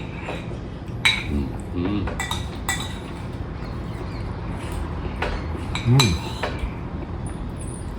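Spoons clinking against soup bowls while eating, several separate sharp clinks with a brief ring spread through the stretch. A short low voice sound comes about six seconds in.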